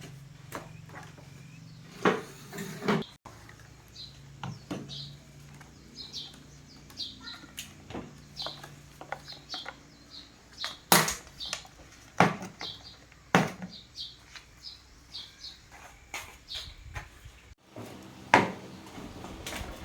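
Scattered clicks and knocks of hard objects being handled and set down, the loudest a few sharp knocks near the middle and one near the end. Short high chirps of small birds keep coming through behind them.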